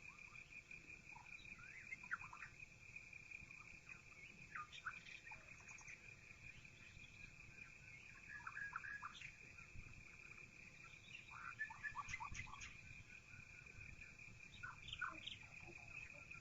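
Faint birdsong: small groups of short chirps every few seconds, over a steady high-pitched tone and a low rumble.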